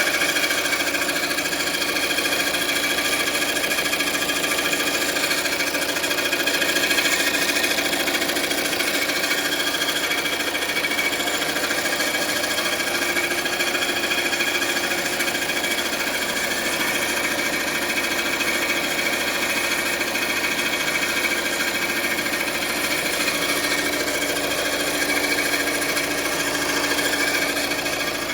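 2017 Volvo V90's engine running under the bonnet with a steady, fast mechanical clatter and ticking: the bad sound from the engine bay.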